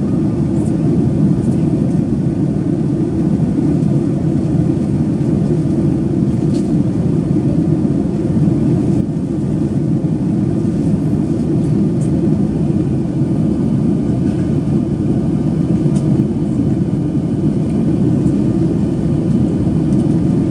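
Steady cabin noise of a Boeing 737-800 in flight on its descent to land: a dense, even rush of airflow and CFM56 engine drone, with a few faint ticks.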